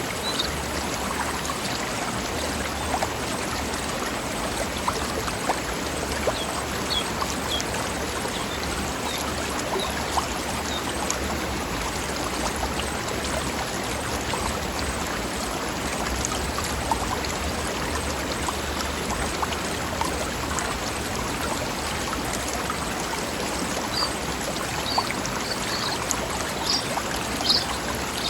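Mountain stream flowing over rocks: a steady rush of running water with small gurgles and splashes.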